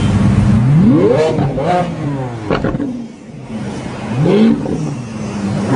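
Car engine revving hard: its pitch climbs steeply about a second in, drops off, dips briefly around the middle, then climbs again about four seconds in.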